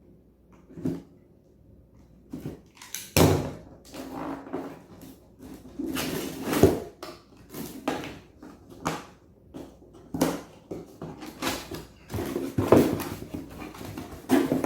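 Packaging being handled while a pressure-washer surface cleaner is unboxed: a few light clicks, then from about three seconds in a busy run of irregular rustles, scrapes and knocks.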